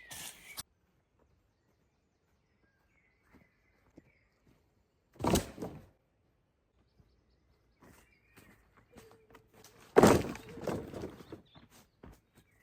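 Wood being handled in forest shelter-building: two loud thuds with crackle, about five seconds apart, and light knocks around them. Faint bird chirps come in between.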